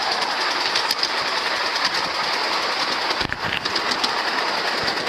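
Train running along its track: a steady rattle and clatter of wheels on rails, with a brief low knock about three seconds in.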